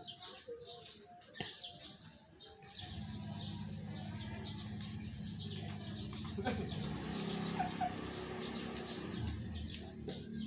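Domestic cat purring steadily from about three seconds in, with faint bird chirps in the background.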